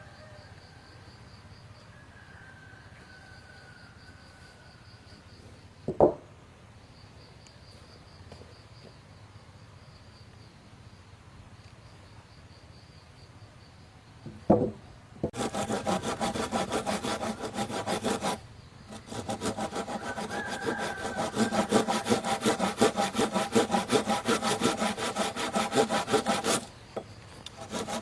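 Saw cutting through wood in rapid, even strokes, starting about halfway in, pausing briefly, then running on until shortly before the end. Before that, two single sharp knocks of wood.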